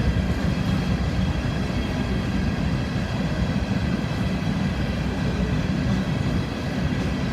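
A long freight train of empty coal hoppers rolling slowly past, a steady rumble of steel wheels on rail.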